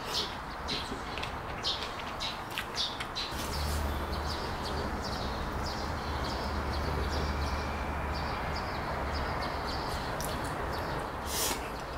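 Small birds chirping repeatedly, with a low steady hum running underneath for several seconds in the middle and one sharp click near the end.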